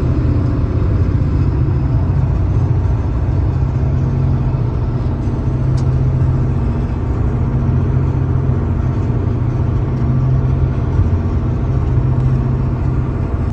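Steady drone of a car driving at highway speed, engine and road noise heard from inside the cabin.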